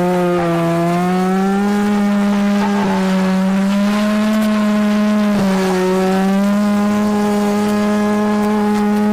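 Mazda RX-7 FC's two-rotor 13B rotary engine running hard at high, fairly steady revs while drifting, its pitch easing up and down with a brief dip about five seconds in.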